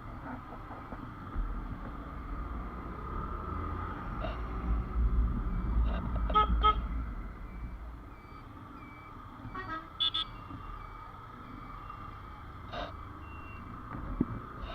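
Road traffic: a low rumble with several short vehicle horn toots, the loudest around six and a half and ten seconds in.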